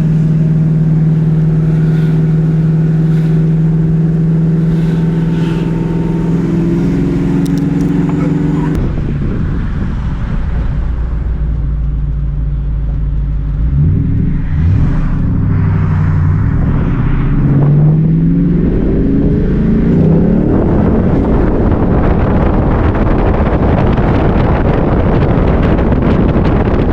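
Car engine running with a steady drone, then accelerating through the gears about halfway through: the pitch climbs, drops at each shift and climbs again, with road noise building toward the end.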